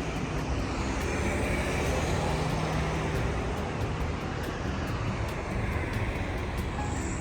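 A steady engine rumble with a wash of hissing noise.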